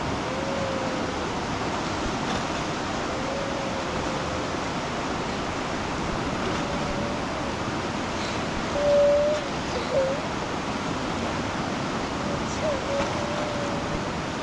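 Steady rush of fast-flowing floodwater. Short faint calls rise above it now and then, with a louder one about nine seconds in.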